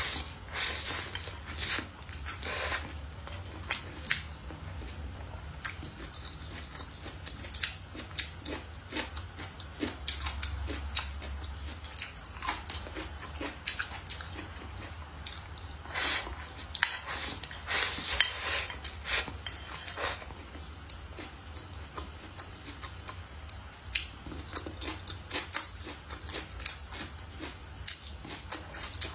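Close-up chewing and biting of stir-fried green chili peppers and beef: irregular crunchy bites and wet mouth clicks, busiest in a few clusters, over a steady low hum.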